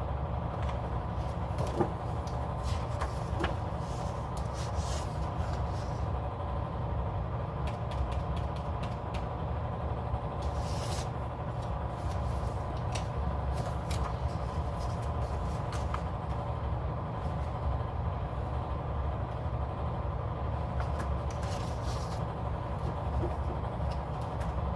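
Scattered soft rustles and clicks of paper planner pages and inserts being handled, over a steady low hum.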